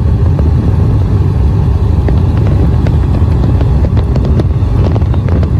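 Loud, steady low rumble of motor-vehicle engines running close by.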